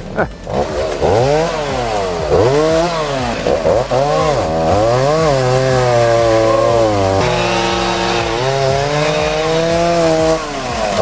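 Chainsaw engine revved up and down about once a second, then held at high revs for about five seconds before easing off near the end.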